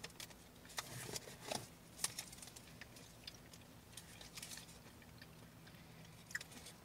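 Faint, scattered clicks and soft rustles of people chewing chocolate and handling its wrapper, over a low steady hum.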